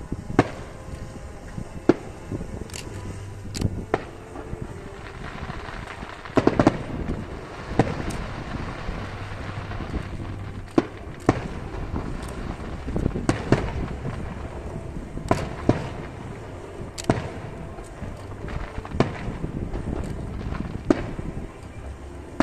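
Aerial fireworks shells bursting in an irregular series of sharp bangs, roughly one a second, with a quick cluster of several bangs about six seconds in.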